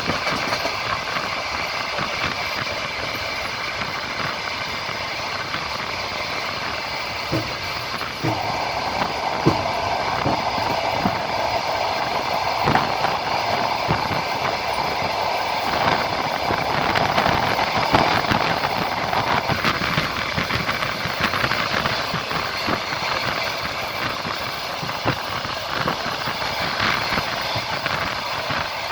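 Passenger train carriage running on the line, heard from the coach window: a steady rumble with the wheels clacking irregularly over rail joints. A louder, higher rushing noise comes in about eight seconds in and fades out about twenty seconds in.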